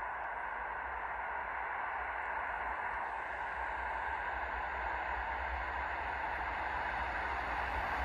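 An approaching train heard from afar: a steady rushing rumble that grows slowly louder.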